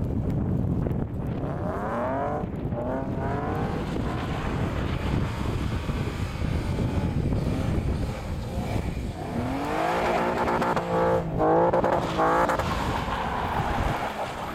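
Suzuki Grand Vitara's 2.5-litre H25 V6, breathing through long-tube headers, revving hard twice as it slides in the snow: its note climbs about two seconds in and again, louder, around ten seconds in.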